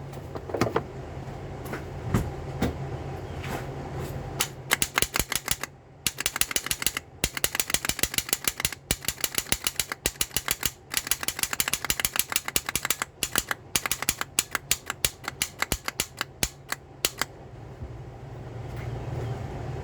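2002 Toyota Solara's starter solenoid clicking rapidly, about five or six clicks a second in runs with short pauses, while the starter motor fails to crank. The plunger and lever seem to engage, but the motor does not turn, which the owner puts down to a bad solenoid or a locked-up starter motor.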